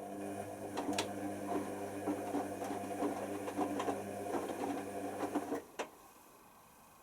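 Hoover Nextra HNWL7146 washer dryer running, a steady motor hum with irregular clicks and knocks, which cuts off about five and a half seconds in and is followed by a single knock.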